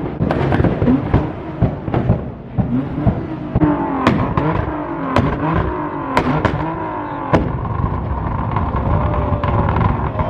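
Car engine revving hard over and over, its pitch swinging up and down about once a second, with sharp pops and cracks mixed in. It settles to a steadier note for the last few seconds.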